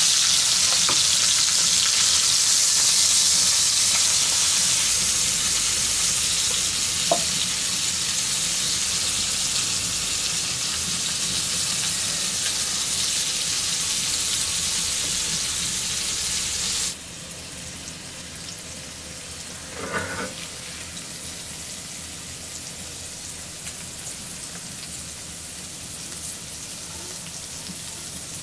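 Dry-aged pork steak, zucchini and tomato slices sizzling loudly and steadily in hot fat on a clay grilling plate. About two-thirds of the way through the sizzle cuts off abruptly to a much quieter crackling, with one soft knock shortly after.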